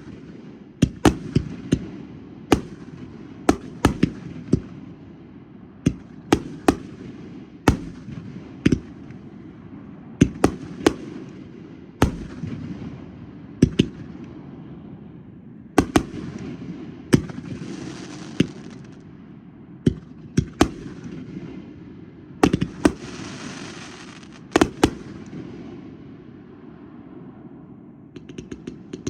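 Fireworks going off: irregular sharp bangs, some in quick pairs, over a continuous din of more fireworks further off. Twice, a longer hiss of a second or two runs among the bangs.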